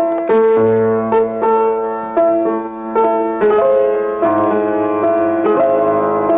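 Piano playing a slow run of chords, a new chord struck about every half second to second and each left to ring and fade.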